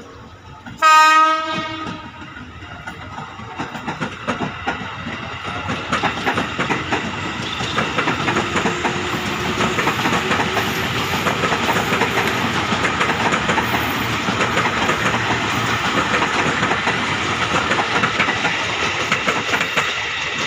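KRL Commuter Line electric train giving one short horn blast about a second in, then passing close by with wheels clattering rhythmically over the rail joints and points, the rolling noise building and staying loud as the carriages go by.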